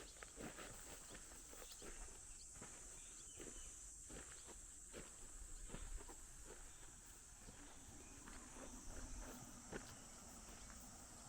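Faint, irregular footsteps and rustling clicks, over a steady high-pitched hiss.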